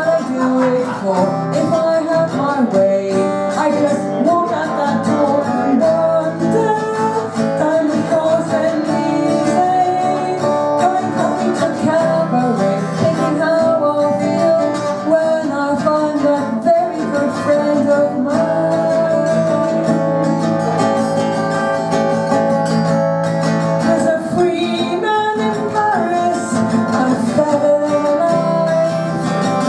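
Live acoustic guitar music: an instrumental passage of a folk-pop song cover, played at a steady level.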